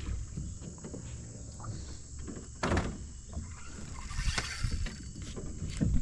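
Drift boat on a river: water and boat noises over a low wind rumble on the microphone, with two louder splash-like sounds about three seconds in and again a little after four seconds.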